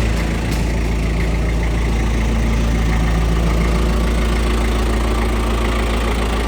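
Tractor engine running steadily at idle, an even low hum with no change in speed.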